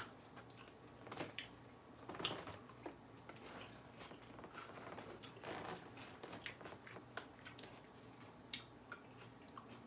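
Faint chewing of crisp lettuce close to the microphone: soft crunches and small mouth clicks scattered through, with a few slightly louder chews about one, two and five and a half seconds in.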